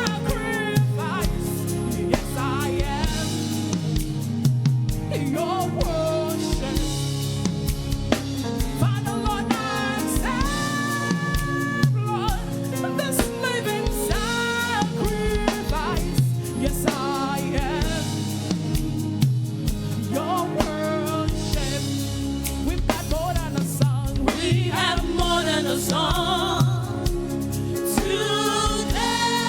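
Live gospel praise-and-worship music: a band with a drum kit playing steadily under singing voices.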